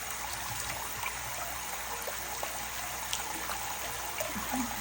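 Water trickling steadily in a green-cheeked conure's bath, with a few faint light ticks or splashes.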